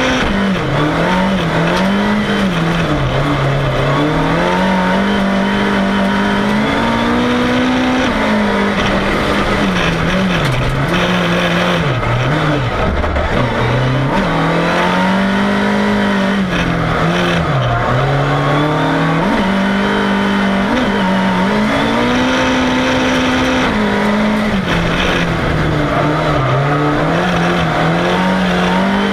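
Volvo 340 race car's engine driven hard, heard from inside the cabin, its revs climbing and dropping again and again through the run.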